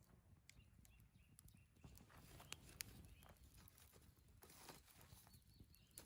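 Near silence with faint scattered clicks and knocks, two sharper ticks about halfway through, over a faint low rumble.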